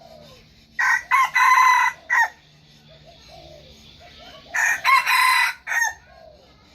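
Junglefowl rooster crowing twice, about four seconds apart, each crow short and broken into clipped parts.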